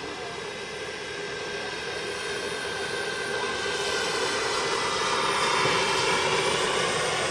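Large remote-control scale Mi-24 helicopter model running, a steady whine with its rotor, getting louder through the first five seconds or so and then holding.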